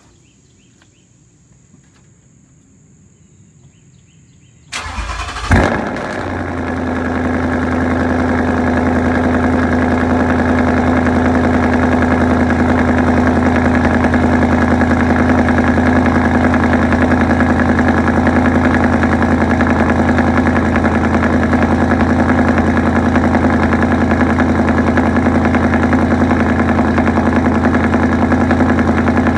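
2020 Ford Mustang GT's 5.0 L Coyote V8 with a straight-pipe MBRP cat-back exhaust, cold-started. After a few quiet seconds the starter cranks briefly, about five seconds in. The engine catches with a loud flare of revs, then settles into a steady, loud idle.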